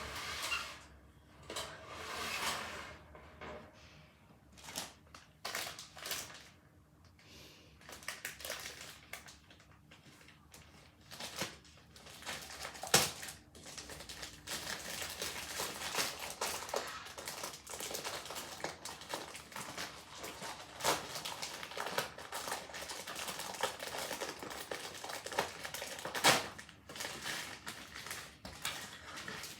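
Irregular rustling, crinkling and crunching of material being handled, with scattered sharp clicks; sparse at first, then nearly continuous from about halfway.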